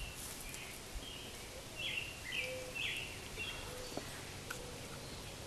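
Birds chirping: a run of short, high chirps, busiest about two to three seconds in, over steady background noise.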